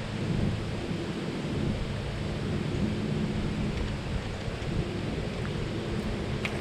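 Strong wind buffeting the microphone, a steady heavy rumble with a faint hum underneath and a few light clicks near the end.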